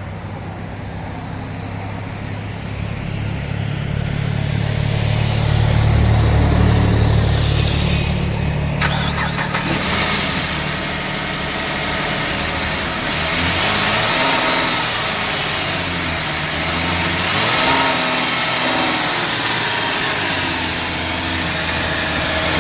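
Car engine running steadily with a low hum, then, about nine seconds in, revved again and again, its pitch rising and falling with each press of the throttle.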